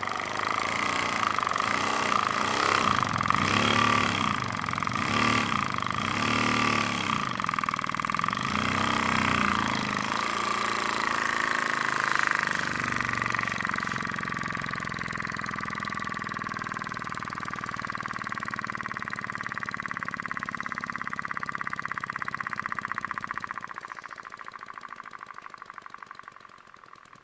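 Small single-acting oscillating-cylinder model steam engine of brass and zamac running fast on compressed air, a rapid, even stream of exhaust puffs. The sound is uneven for the first ten seconds or so, then steady, and dies away near the end.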